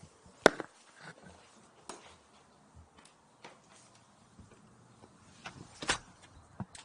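Scattered sharp knocks and clicks, the loudest about half a second in and another, longer one near six seconds.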